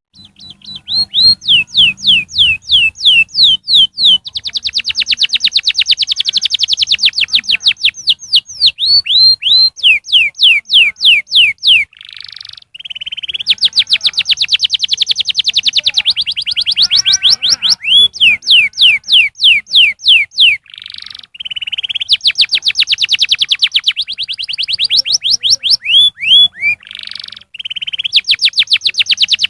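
Domestic canary singing a long song made of repeated downward-sweeping whistled notes, some phrases slow and others rapid trills, changing every few seconds with a few short breaks.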